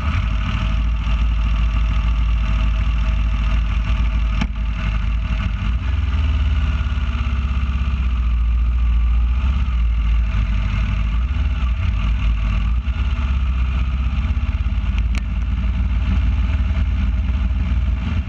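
Aprilia Dorsoduro 1200's V-twin motorcycle engine running steadily at low speed, heard up close from the bike itself.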